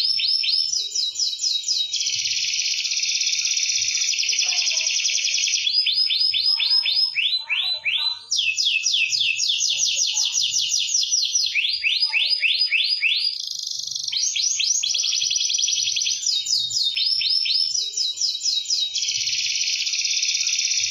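Domestic canary singing in full song: long, fast trills of rapidly repeated high notes, switching to a new trill every second or two and barely pausing.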